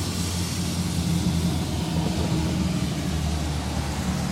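Steady low drone of a running vehicle engine.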